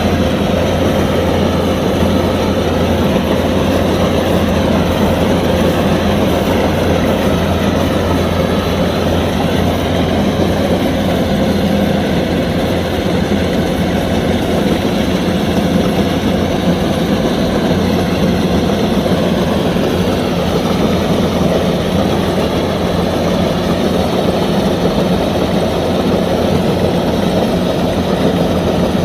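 Kubota DC-105X combine harvester running steadily, a continuous loud engine drone with a strong low hum and no change in speed.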